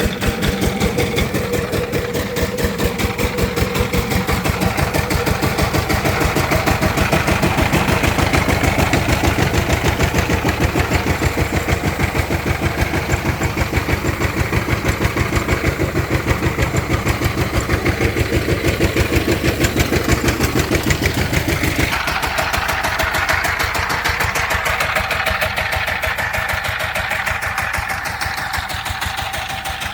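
Diesel engine running with an even, fast chugging beat. About two-thirds of the way through the sound changes: the deep part falls away and a higher, rougher running sound takes over.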